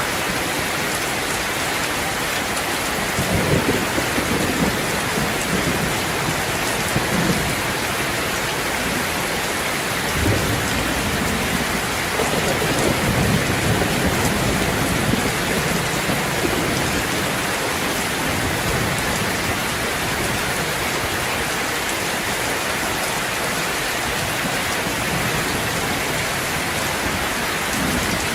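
Steady, heavy rain, with low rumbles of thunder a few seconds in and again around the middle.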